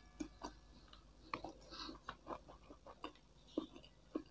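Faint close-up chewing of a mouthful of fried chicken and rice: soft, irregular wet clicks and small crunches from the mouth.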